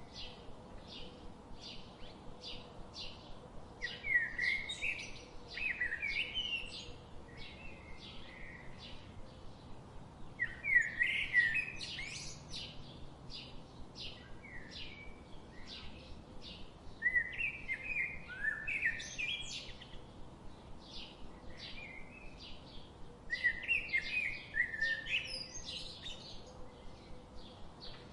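Birdsong: a steady series of short high chirps, about two a second, broken every few seconds by louder warbling phrases.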